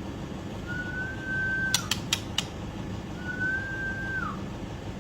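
White-rumped shama (murai batu) whistling: two long level whistles, each slurring downward at the end, the first followed by a few sharp clicks, over a steady low background hum.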